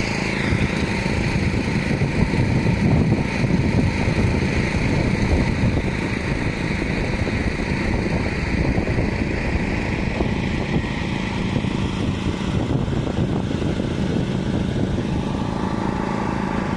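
A motor running steadily, with a low hum.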